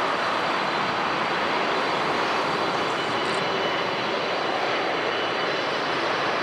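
Jet airliner engines, a steady rushing roar with a faint high whine, holding level without rising or fading.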